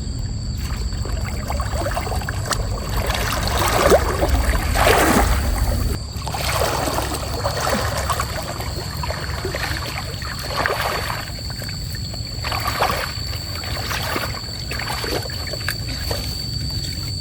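Water sloshing and splashing in a stream in irregular bursts, loudest a few seconds in, over the steady rush of flowing water.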